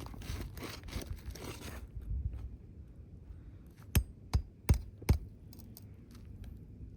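A flat bar prying under asphalt shingles to draw out roofing nails: scraping and tearing of the shingle at first, then four sharp knocks in quick succession about four seconds in, with a few lighter ticks after.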